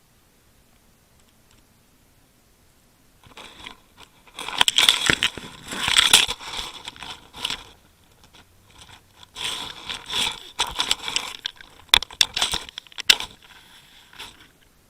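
Irregular rustling and scraping close by, in two stretches, with a few sharp clicks near the end.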